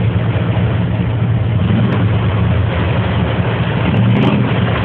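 Ford pickup truck's engine running hard as it drives through a mud hole, a steady low drone with noise over it that swells briefly about four seconds in.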